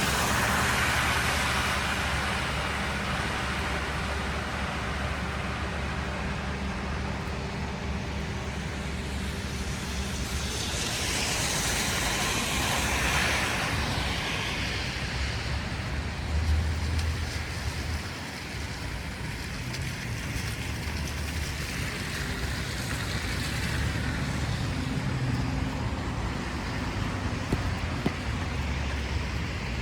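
City street traffic: a steady low rumble of engines and tyres, with one vehicle passing closer about a third of the way in, its tyre hiss swelling and fading.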